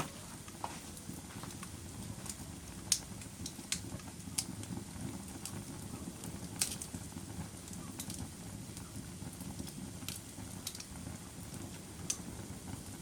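Fire burning in a fireplace: a steady low rush of flames with scattered sharp crackles and pops, the loudest about three and six and a half seconds in.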